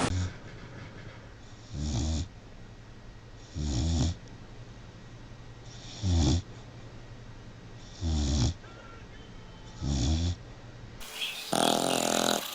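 Sleeping puppy snoring: five rasping snores, one on each breath, about two seconds apart. Near the end, after a cut, a louder, longer rasping sound follows.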